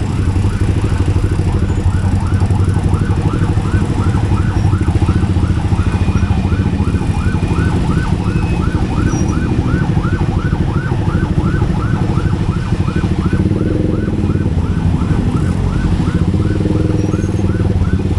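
A yelping siren of rapid rising sweeps, about four or five a second, over the steady running of a vehicle engine in road traffic.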